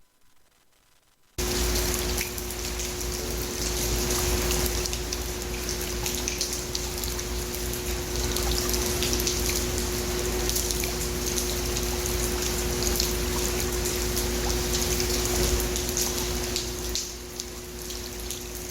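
Rain falling steadily, cutting in abruptly about a second and a half in, with a steady low hum under it; it eases slightly near the end.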